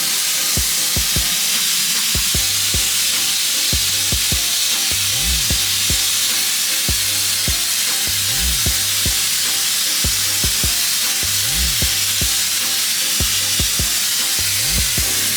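A steady, loud hiss over a music track with a deep bass line that slides in pitch about every three seconds.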